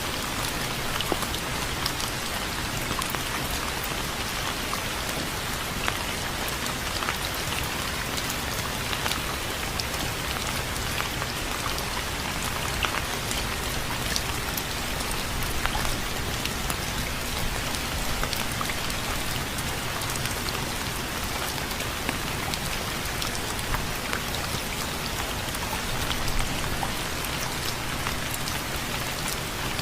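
Steady rain falling, with individual drops pattering sharply on a surface.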